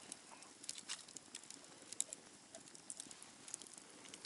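Light rain: irregular ticks of raindrops landing close to the microphone, over a faint hiss.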